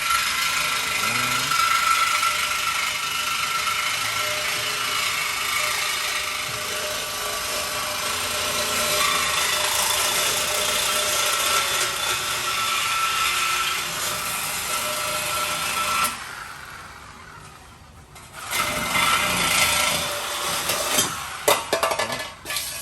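Power tool cutting through steel exhaust pipe to remove the mid mufflers, a steady harsh cutting sound with a constant whine. It stops about sixteen seconds in, starts again for a couple of seconds, then ends in a few knocks.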